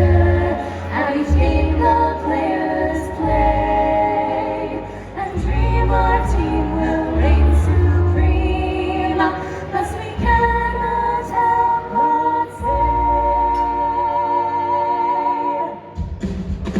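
A woman singing over loud backing music with a heavy bass line, holding one long note with vibrato near the end; the music drops away suddenly about a second before the end.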